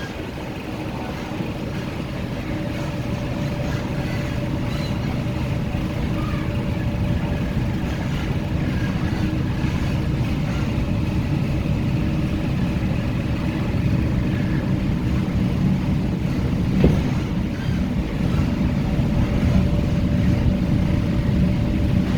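Hong Kong MTR Tung Chung Line K-train, a Hyundai Rotem electric multiple unit, running on the line: a steady rumble of wheels on rail with a steady motor hum, growing gradually louder, and a single click about seventeen seconds in.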